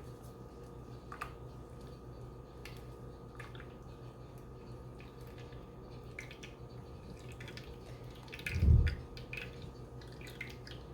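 Faint drips and light clicks of containers and utensils being handled over a steady low hum, with one dull thump about nine seconds in.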